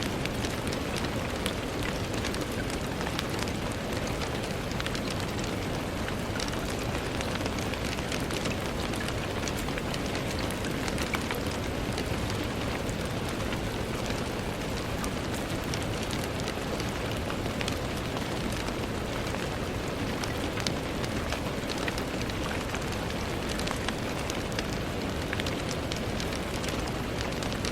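Steady rain falling on a window pane: an even hiss scattered with many small ticks of individual drops.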